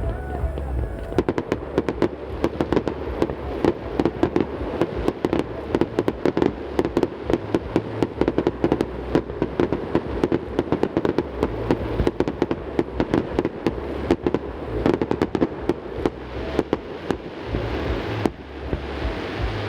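Fireworks display at its height: a dense, rapid crackling of many small bursts from about a second in, over a low rumble of explosions echoing between the mountains.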